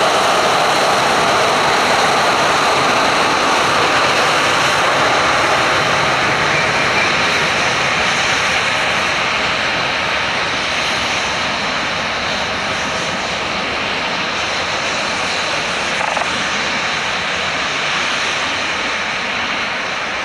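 Military jet engines running, a loud steady rushing noise that slowly fades.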